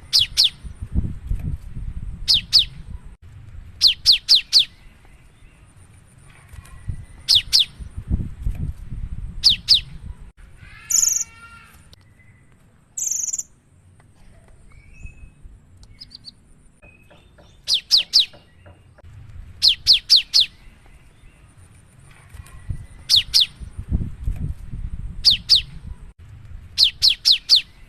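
Cinereous tit (gelatik batu) singing rapid-fire: short bursts of two to four sharp, high, quickly falling notes repeated every second or two, with two louder, harsher calls near the middle. A low rumble runs underneath at times.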